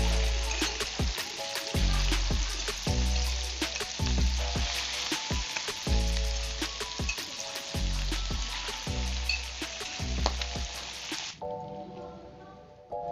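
Squid pieces frying in hot oil in a pan: a loud, steady sizzle full of crackling pops as the oil spatters. The sizzle cuts off suddenly about eleven seconds in, leaving background music with a steady beat.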